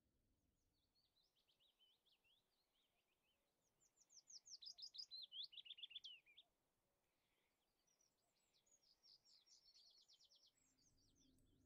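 A small songbird singing faintly: phrases of rapid, repeated chirps and trills, the loudest phrase about four to six seconds in.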